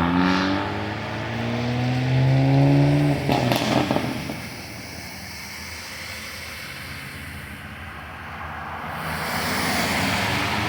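A car engine accelerating, its pitch rising steadily for about three seconds, followed by a short noisy burst. The engine then settles into a quieter steady background, which builds again near the end.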